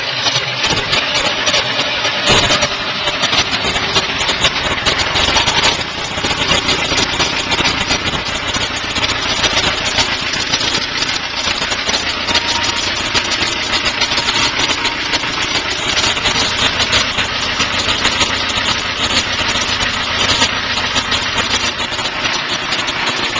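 Ferguson FE35's four-cylinder diesel engine running just after a cold start on its flame heater plug. The engine note fills out and deepens about two seconds in.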